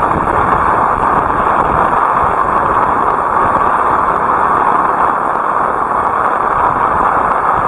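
Heavy rain pouring down in strong wind, a steady loud hiss with gusts buffeting the microphone in a low rumble.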